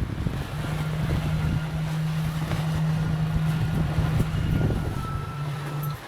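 A motor on a sailboat running with a steady low hum, which cuts out just before the end. Wind buffets the microphone.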